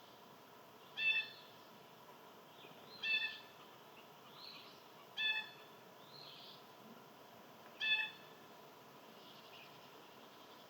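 A bird giving a short, harsh nasal call four times, about every two to three seconds, with fainter chirps from other birds between the calls.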